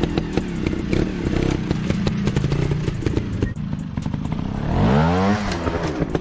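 Small dirt-bike engine running steadily, then revving up and back down about five seconds in, over scattered clicks and clatter.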